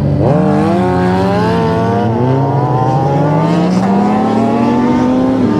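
Sportbike engine accelerating hard, its pitch climbing, with an upshift about two seconds in and another near the end.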